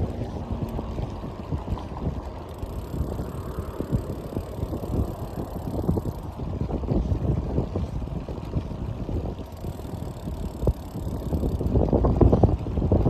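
Wind buffeting the microphone on a moving bike: a low, uneven rumble that swells near the end.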